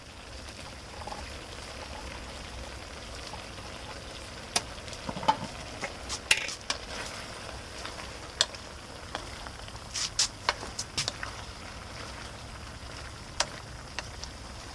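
A stir-fry of kohlrabi, chicken and celery sizzling steadily in a wok over a gas burner, with a spatula scraping and knocking against the pan as the vegetables are tossed.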